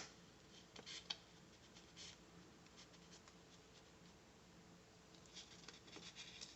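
Near silence with faint handling of paper planner stickers: a sharp click at the start, then a few light taps and a brief soft rustle.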